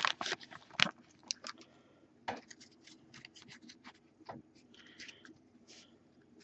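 Faint, scattered clicks and rustles of trading cards being handled and flipped through, with a few sharper clicks spread through.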